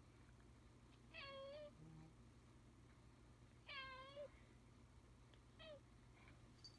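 A black cat meowing softly three times in an affectionate, attention-seeking voice: two drawn-out meows and a short one near the end.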